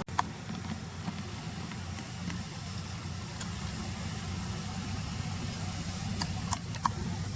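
Steady low outdoor background rumble with a few short clicks, one just after the start and two near the end.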